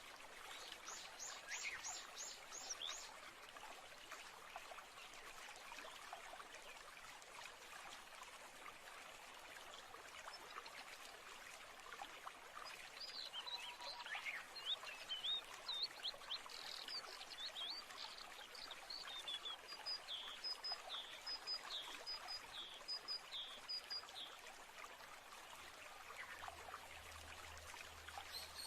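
Running stream with birds singing: a quick run of high chirps about a second in, and a longer, varied song through the middle.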